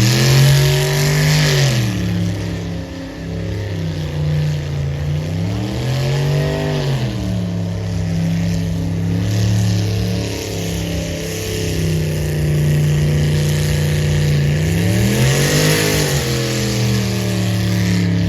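Truck engine idling, blipped up in revs and falling back three times: near the start, about six seconds in, and near the end.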